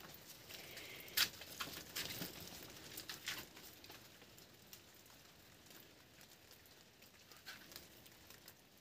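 Light rain pattering faintly, with scattered sharp taps in the first few seconds, the loudest about a second in.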